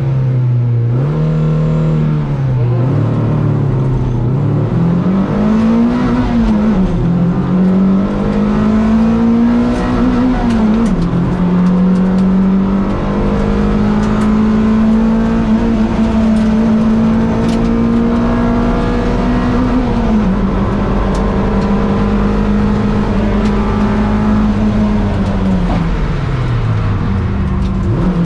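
Toyota MR2 race car's engine accelerating hard up through the gears, its pitch climbing and then dropping sharply at each change. It holds high revs for a long stretch and eases off near the end.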